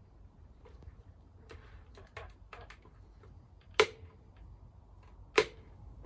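Light clicks and taps, then two sharp knocks about a second and a half apart.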